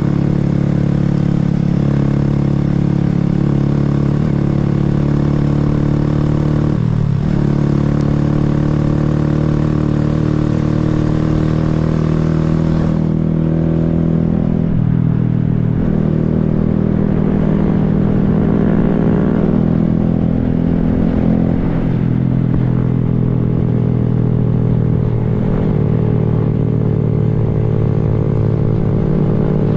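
2020 Honda Grom's 125 cc single-cylinder engine running while the bike is ridden, a steady note that breaks off briefly about seven seconds in and then rises in pitch several times as the bike accelerates.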